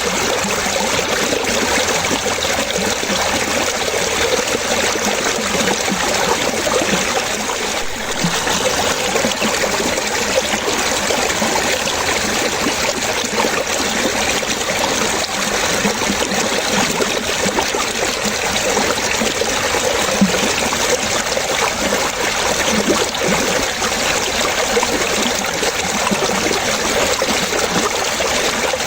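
Running water trickling and splashing in a steady, unbroken flow, like a small stream.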